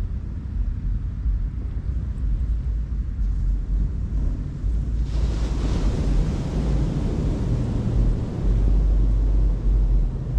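Wind rumbling on the microphone over the wash of ocean surf, with a louder wash of water about five seconds in that lasts a few seconds.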